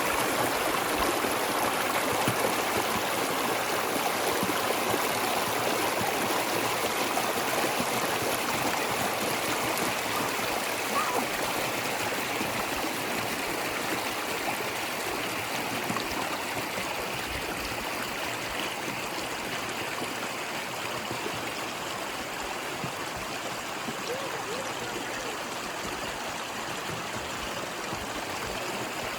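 Small waterfall splashing and rushing up close, a steady, even sound that eases off slightly toward the end.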